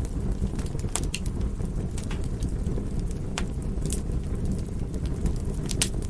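Fire crackling: sharp, irregular pops and snaps over a steady low rumble of burning.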